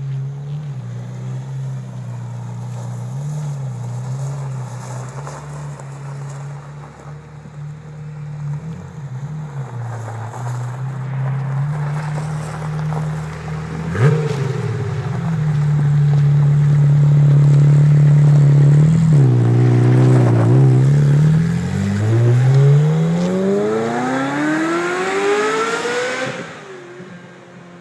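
Ferrari F355's V8 engine through a Nouvalari aftermarket exhaust, running at low revs with small throttle blips, then held at higher revs. Near the end it climbs in a long rising rev over about four seconds and cuts off suddenly.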